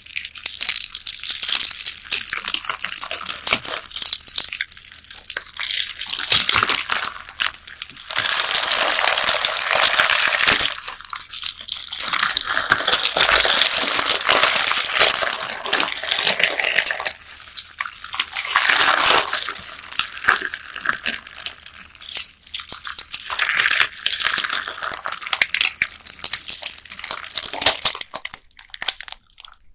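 Bead-filled slime being squished, pressed and stretched by hand, giving a dense crackle of many small sticky pops and bead clicks. It swells louder in a few longer stretches and eases off between them.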